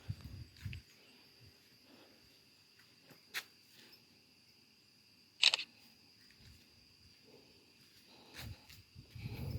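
Faint steady insect drone held on two high pitches, broken by a few sharp clicks, the loudest about five and a half seconds in, and low thumps near the start and end, the sound of a phone being handled while filming.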